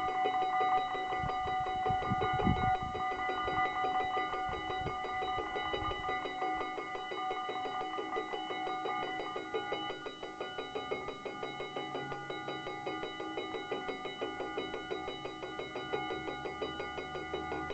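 Two mechanical bells of a Dutch AHOB automatic half-barrier level crossing ringing continuously with rapid, even strikes, the warning that a train is coming. A few low thumps sound in the first few seconds.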